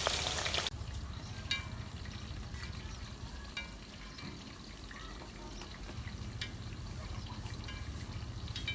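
Thin potato slices deep-frying in hot oil in a pan, sizzling. The sizzle drops sharply less than a second in, then carries on more quietly with scattered sharp crackles.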